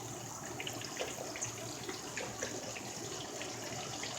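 Fish frying in hot grease: a steady sizzle with small crackling pops.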